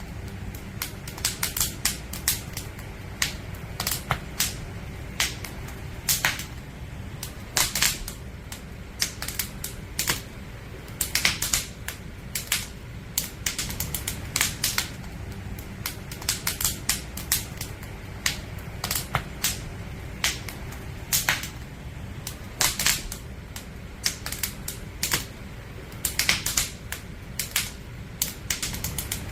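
Firewood burning in a campfire, crackling with irregular sharp pops that come singly and in quick clusters, over a steady low rumble.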